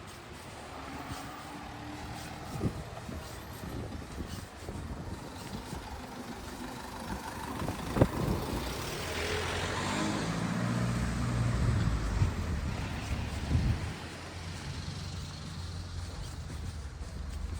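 A motor vehicle passing close by, its engine and road noise swelling to their loudest about ten to twelve seconds in, then fading. There is a single sharp knock about eight seconds in.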